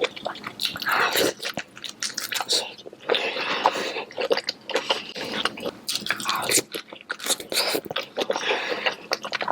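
Close-miked eating sounds: bites, wet chewing and mouth smacks on king crab in a creamy cheese sauce, coming thick and irregularly.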